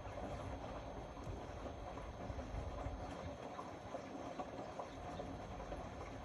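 Indesit Innex BWE 91496X washing machine running, its drum turning with a steady rumble and irregular soft knocks.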